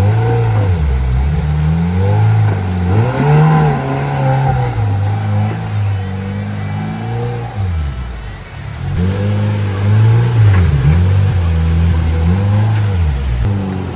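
Side-by-side UTV engine revving up and down again and again as the throttle is worked on a rocky hill climb, dropping back briefly about eight seconds in before revving again.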